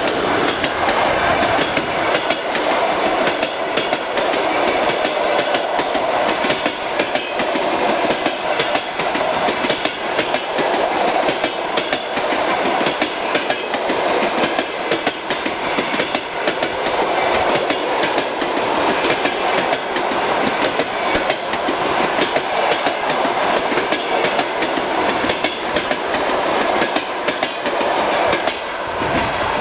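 Coaches of a long-distance passenger train rolling past at speed close by: a loud, steady rush with rapid clickety-clack from the wheels.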